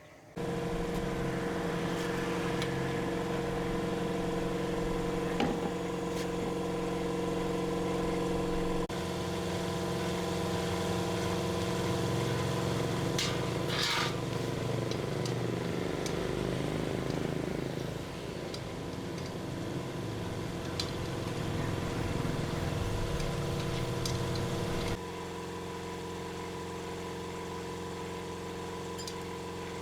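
Motorcycle engine running steadily, with its pitch rising and falling about halfway through as it is revved.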